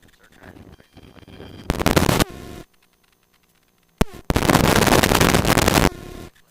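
Helicopter intercom feed with two loud bursts of static-like hiss. Each cuts in and out abruptly, one short and one about a second and a half long, with near-silence between them, as the headset microphone gate opens on cockpit noise. A sharp click comes about four seconds in.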